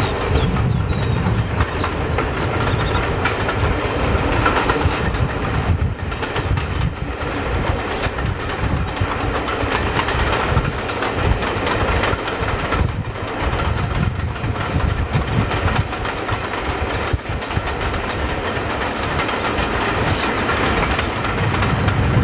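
Diesel-hauled rake of Pullman coaches passing, its wheels clicking steadily over the rail joints under a constant rumble. The low engine rumble is strongest at the start, as the class 67 at the head moves away, and builds again near the end as the Deltic diesel at the rear approaches.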